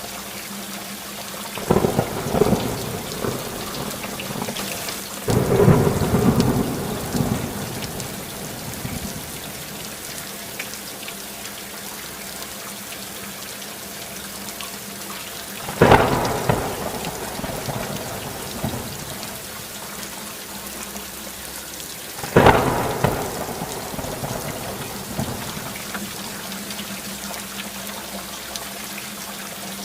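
Steady rainfall with four thunderclaps, each breaking suddenly and rumbling away over a few seconds: two close together in the first few seconds, one about halfway through, and one a few seconds after that.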